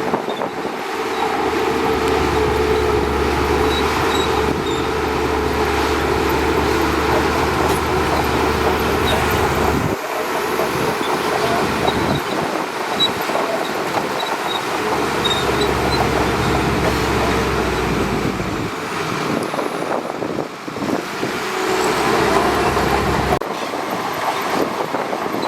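Shantui DH17C2 crawler bulldozer working: its diesel engine runs steadily under the rattle of its tracks. The deep engine note drops away a few times and comes back.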